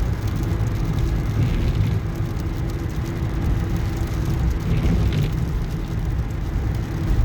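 A road vehicle driving along, a steady low rumble of engine and road noise.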